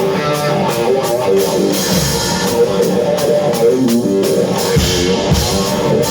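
Rock band playing live: an electric guitar line over a drum kit, with heavy kick-drum hits about two seconds in and again near five seconds.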